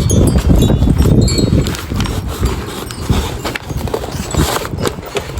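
Footsteps and light knocks while the grocery delivery is dropped off, with a heavy rumble of wind on the microphone in the first second or two.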